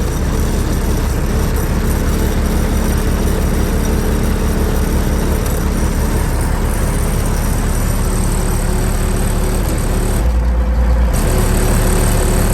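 Semi truck's diesel engine idling steadily with a deep low rumble. About ten seconds in, a stronger low hum swells for about a second.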